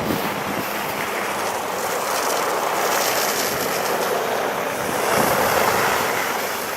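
Street traffic passing on a slushy, snow-covered road: tyres hissing through wet snow, swelling and fading as cars go by.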